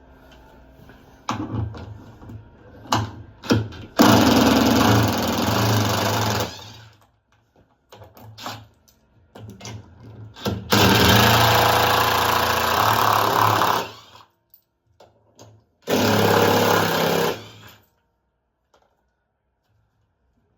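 Power screwdriver running in three bursts of a few seconds each, driving out screws while the front panel of a washer-dryer is taken apart, with small clicks and knocks of parts being handled in between.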